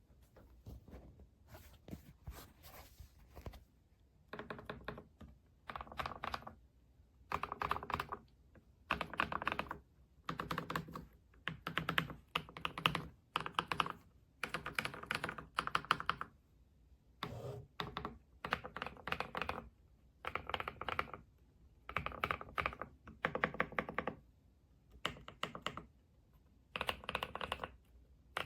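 Typing on a Kisnt gasket-mounted wireless mechanical keyboard with linear switches: rapid runs of keystrokes, each about a second long, broken by short pauses.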